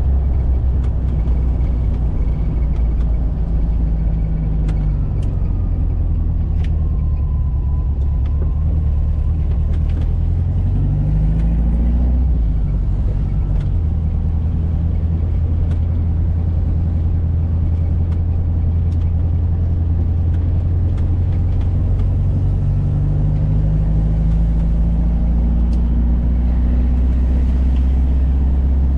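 A 1985 Volkswagen Fusca (Beetle) with an air-cooled flat-four engine, running steadily on the road. The engine pitch climbs as it accelerates about ten seconds in, and again over the last few seconds.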